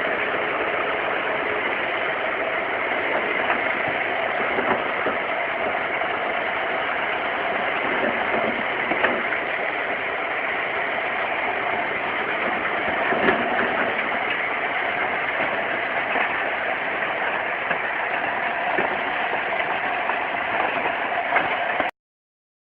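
Heavy machine's engine running steadily at an even pitch, with a few faint knocks. It cuts off abruptly near the end.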